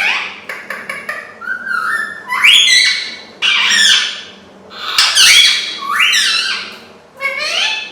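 Pet parrot calling: a run of about eight loud squawky calls, each one sweeping up or down in pitch, with short gaps between them.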